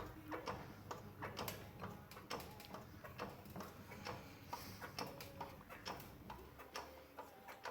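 Faint, irregular small clicks and taps of hand tools working on a riding mower.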